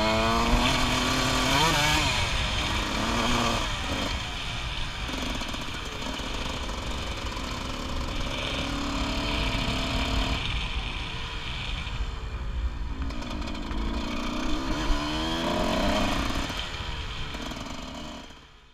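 Honda CR125 dirt bike's two-stroke single-cylinder engine running as it is ridden, revving up and falling back several times, with wind noise on the helmet microphone. The sound fades out near the end.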